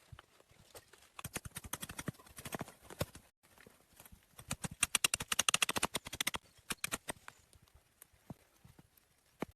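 Rapid runs of sharp clicks and knocks, many a second: one about a second in and a louder one around the middle, with scattered single knocks between.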